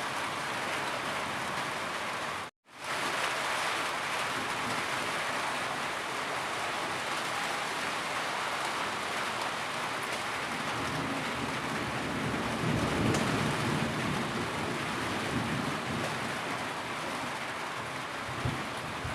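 Steady heavy rain, an even hiss with no let-up. It cuts out completely for an instant about two and a half seconds in, then resumes. A low rumble swells under it around the middle.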